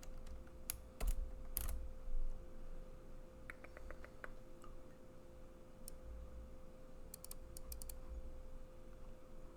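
Keystrokes on a computer keyboard in short bursts: a few louder taps in the first two seconds, a quick run of keys about three and a half seconds in, and another flurry near the end. A faint steady hum sits underneath.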